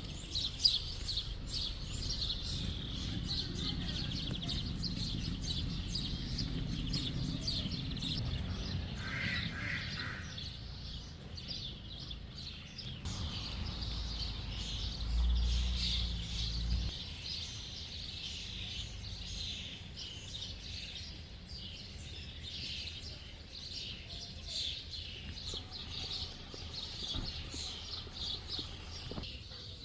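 Many small songbirds chirping and singing at once, a continuous chorus of quick high chirps. Under it runs a low rumble that swells briefly about halfway through.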